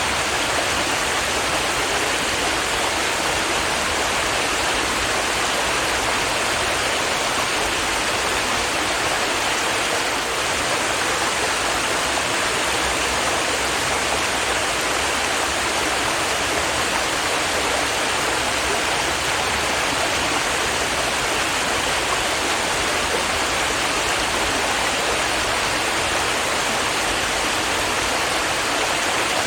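Stream water running over rocks, a steady, even rush of flowing water with no change.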